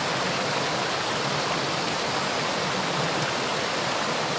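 Waterfall rushing as a steady, even roar of water, close by.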